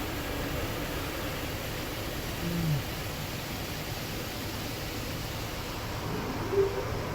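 Steady rushing noise inside a car in an automatic car wash, with a short falling sound about two and a half seconds in and a brief higher sound near the end.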